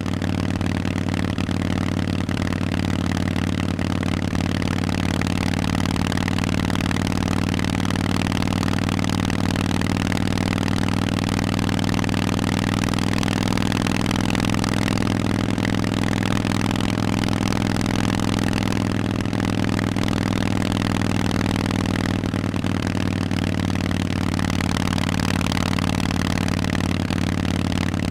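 Harley-Davidson Forty-Eight's air-cooled V-twin idling steadily through Vance and Hines aftermarket exhausts, with no revving.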